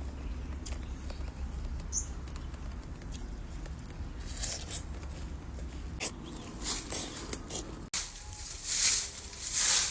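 Light rustling and scattered soft taps over a low steady hum; after a sudden cut about 8 seconds in, louder rustling or scraping bursts.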